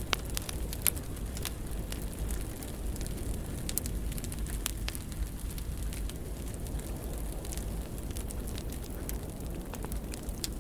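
Wood fire burning in a fireplace: a steady low rumble with frequent sharp crackles and pops at irregular intervals, two louder pops about a second in.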